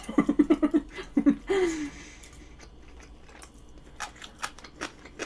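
A short burst of laughter, then chewing a mouthful of curry, with a few sharp mouth clicks and smacks near the end.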